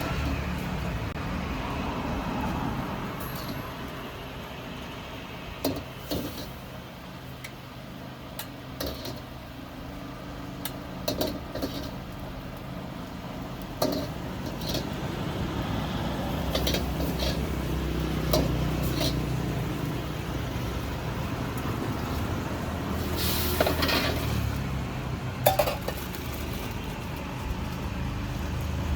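Scattered clinks and knocks of metal utensils and dishes, a few at a time, over a steady low rumble.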